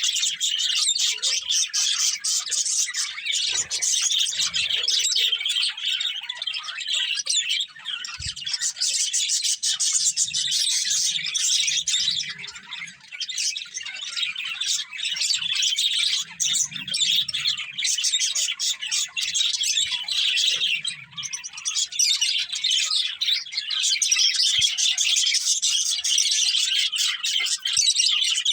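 Budgerigars chirping and chattering without pause, a dense stream of rapid high-pitched chirps and warbles with a couple of brief lulls.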